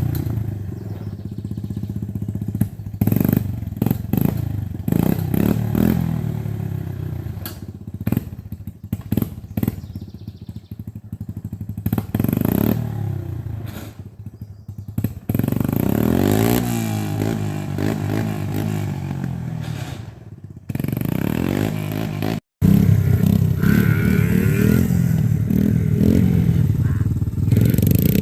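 Dirt bike engine revving up and down again and again, its pitch rising and falling. It cuts out abruptly for a moment about three-quarters of the way through, then comes back louder.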